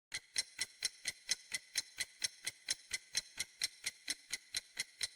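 Clock-ticking sound effect: a steady, even tick about four to five times a second, used as the quiz's guessing timer.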